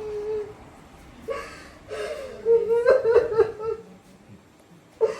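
A high-pitched human voice making wordless emotional sounds, with a cluster of short pulsing bursts about three seconds in.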